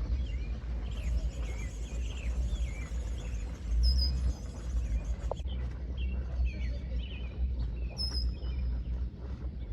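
Small birds chirping repeatedly in short rising and falling notes, with a couple of higher chirps about four and eight seconds in, over a steady low rumble.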